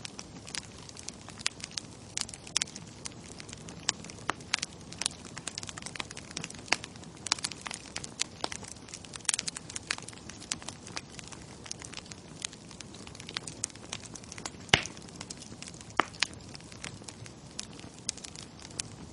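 Bonfire crackling: a steady low hiss of burning with irregular sharp pops and snaps throughout, the loudest pop about fifteen seconds in.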